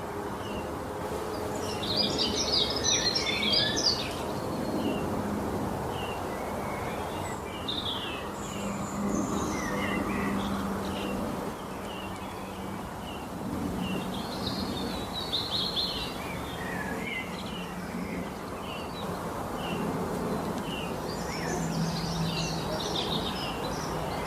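Several songbirds chirping and singing, with short repeated chirps throughout and denser bursts of song about two seconds in, in the middle and near the end, over steady background noise with a low hum.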